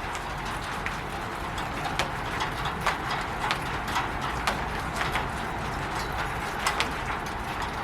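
Rain falling on a roof: a steady hiss of rain with irregular drops tapping sharply, some louder taps a few seconds in and a pair near the end.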